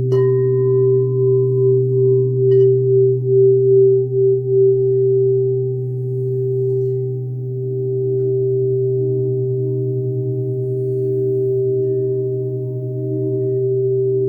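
Crystal singing bowls ringing with several steady, overlapping low tones that pulse as they beat against each other. A strike just at the start adds a higher ringing tone that fades over about three seconds, and a lighter tap follows about two and a half seconds in.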